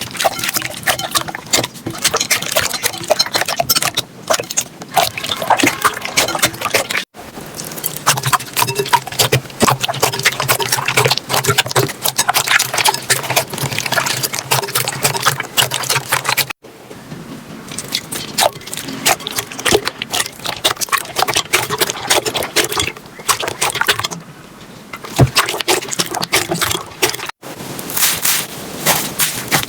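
Slime being squished, poked and stretched by hand, giving a dense run of wet clicks, pops and crackles, in several clips that cut abruptly from one to the next.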